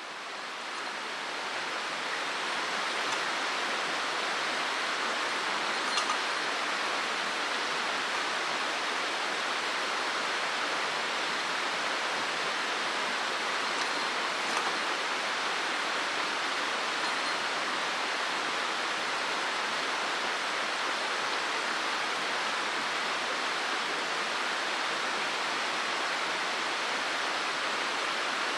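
Mountain stream rushing over rocks: a steady hiss of running water that fades in over the first couple of seconds, with a few faint ticks.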